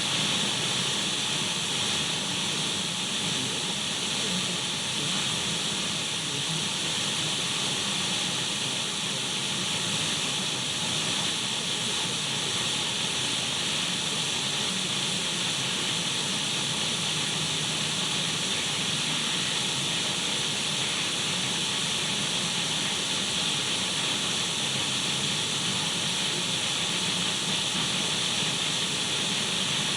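Radio static: steady, unchanging hiss between stations, brightest in the upper range.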